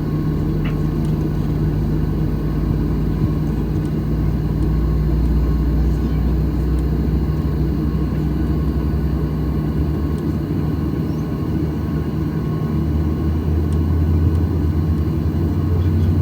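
Steady low drone inside the cabin of a Boeing 737-800 airliner, its engines and air system running. A deep hum with a few steady tones, whose lowest part steps up in pitch about thirteen seconds in.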